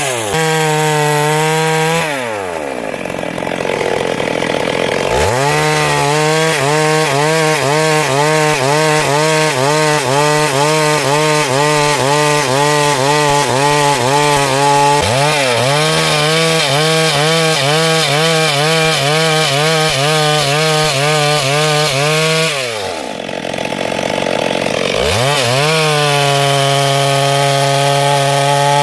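Two-stroke chainsaw running at high revs while cutting lengthwise through wood into boards, its pitch rising and falling rhythmically under load. The engine drops toward idle twice, about 2 s in and again near 23 s, then revs back up.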